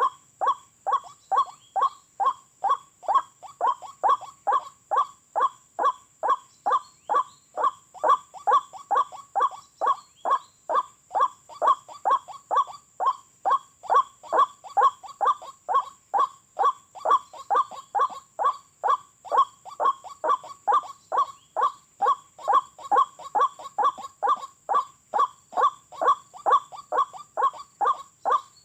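White-breasted waterhen (ruak-ruak) calling: a long, monotonous series of short, evenly repeated call notes, about two or three a second, with no break.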